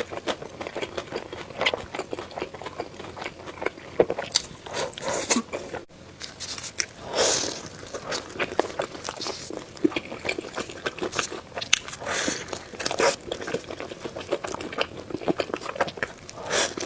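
Close-miked eating: biting and chewing crunchy food, a steady run of small crunches and crackles with a few louder, longer crunches.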